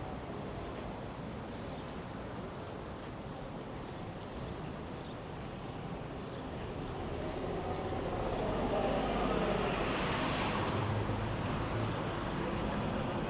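Street traffic, with a motor vehicle passing close by that grows louder about eight seconds in, peaks, then eases off near the end.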